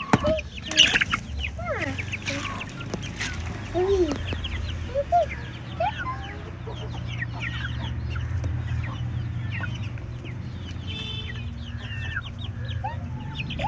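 Chickens clucking, with many short high peeps mixed among lower arched clucks, over a steady low hum.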